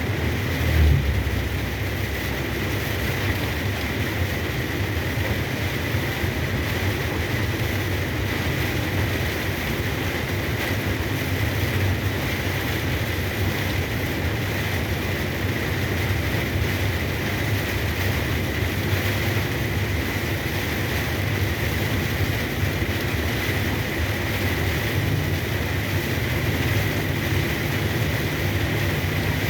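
Steady drone of a truck's engine and road noise heard from inside the cab while driving in heavy rain, with a constant high hiss from rain and spray and a thin steady whine. There is a brief low thump about a second in.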